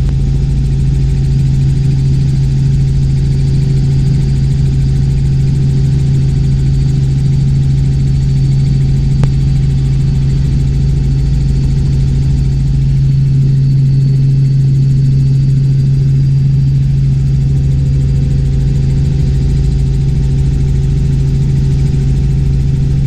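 Robinson R44 Clipper II helicopter in cruise flight, heard from inside the cabin: a loud, steady drone from its six-cylinder piston engine and rotors. A single brief click comes about nine seconds in.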